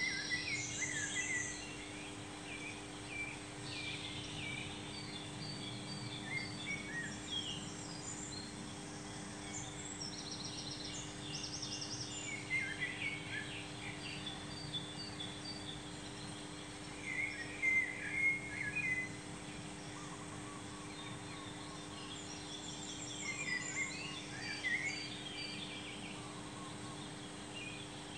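Birds chirping and trilling in short, repeated calls, over a steady low hum and background noise.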